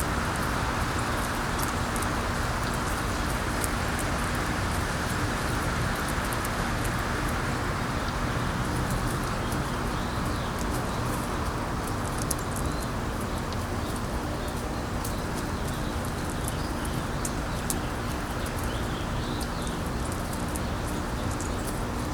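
Steady wind rushing over a low, even hum, with small birds chirping and twittering now and then, more often in the second half.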